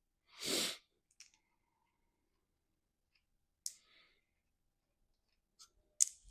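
A short burst of hiss-like noise about half a second in, then a few scattered sharp clicks of metal tools and bolts being handled during engine work.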